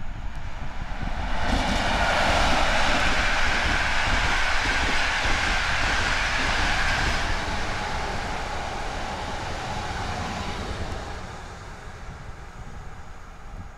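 Two electric passenger trains passing each other at speed on electrified track, a locomotive-hauled train of coaches and an electric multiple unit. Their rolling rail noise swells about a second and a half in, holds loud for several seconds, then fades as they draw away, dropping further near the end. Wind buffets the microphone throughout.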